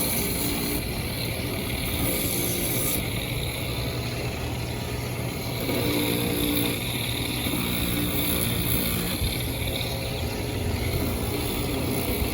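Motor-driven sander grinding a shoe sole made of aircraft-tyre rubber, running steadily with a low hum under a rough grinding hiss that changes a little as the sole is pressed on and moved.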